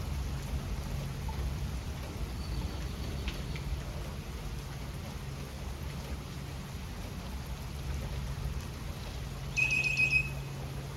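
Steady rain falling, with a low rumble underneath. A brief high-pitched chirp or squeak near the end.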